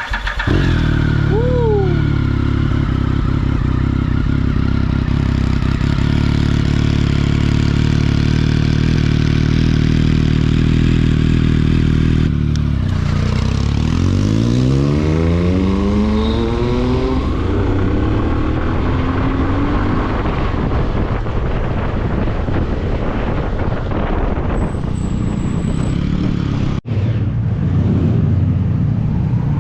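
Triumph Speed Triple 1050 inline-three motorcycle engine with an SC Project aftermarket exhaust, running at a steady idle and then revved up partway through, its pitch rising and falling with the throttle. A short "woo!" cheer comes just after the start.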